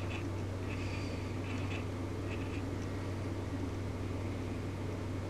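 Steady low background hum, with a few faint soft brush strokes of paint being applied in the first couple of seconds.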